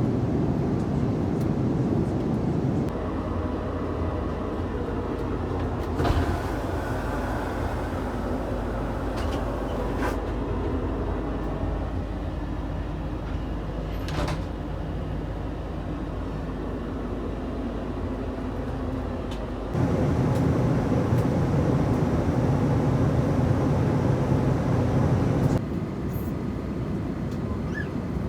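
Steady low rumble of an Airbus A330-300 airliner cabin, engine and airflow noise, with a few short clicks and knocks. The level steps up or down abruptly a few times.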